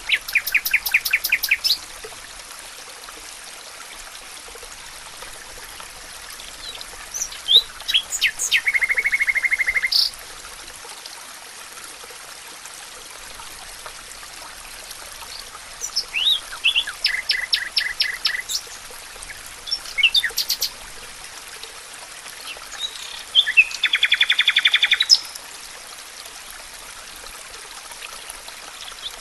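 A songbird singing rapid trilled phrases about two seconds long, four times with a short extra phrase between, over a steady rush of flowing stream water.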